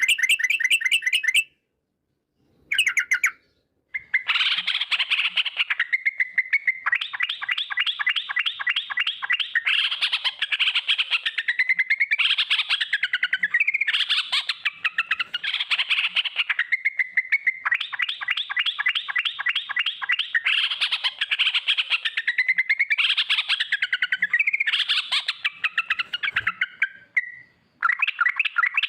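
Yellow-vented bulbul (trucukan) singing its long, rapid rolling 'ropel' song: fast trains of chattering notes, in two short bursts at first and then an almost unbroken run until near the end.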